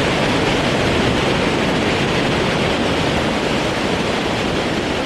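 Steady, loud rush of wind over the microphone of a motorcycle rider at road speed, drowning out the engine.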